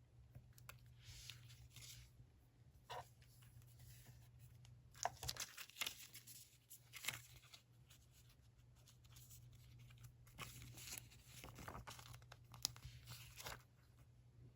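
Faint paper handling at a desk: paper or sticker sheets being torn and crinkled in short, scattered bursts, busiest about five seconds in and again about ten seconds in.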